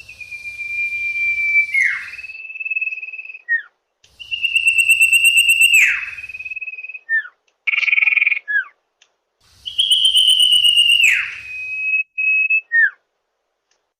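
Common iora (cipoh) calling: three long, level, pure whistles, each about two seconds and ending in a quick downward slide, overlaid by a harsh buzzy rattle. Short down-slurred notes and one brief harsh chatter come between the whistles.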